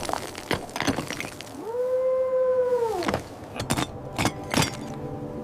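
Scattered knocks, as of tapping or digging at snow and ice. In the middle comes a single howl lasting about a second and a half, which rises at the start and falls away at the end.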